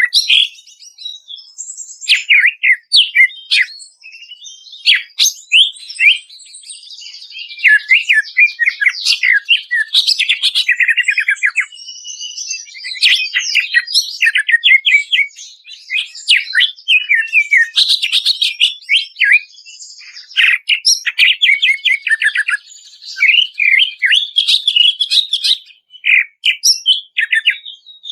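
Cucak ijo (green leafbird) singing loudly and continuously: fast runs of sharp down-sweeping notes and rapid trills, broken by short pauses.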